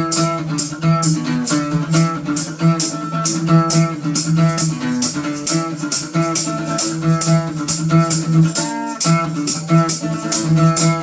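Instrumental passage of a rock band song with no singing: guitar and bass over a steady drum beat.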